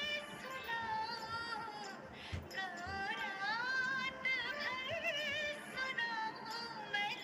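Music: a woman's voice singing a wavering, ornamented melody.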